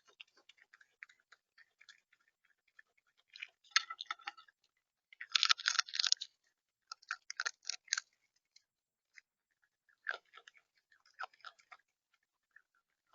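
A bird feeding close to the feeder's microphone: rapid clicks and crunches of pecking and cracking seed on the feeder tray, in several short bursts, the loudest about five to six seconds in.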